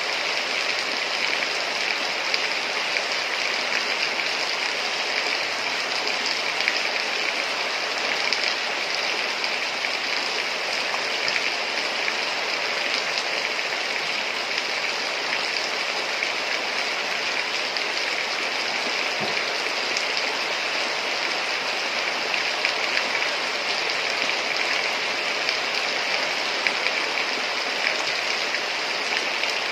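Heavy rain falling steadily, an even dense hiss with small scattered drop hits.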